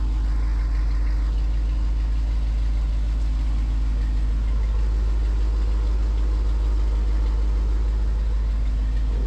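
An old dump truck's engine idling steadily.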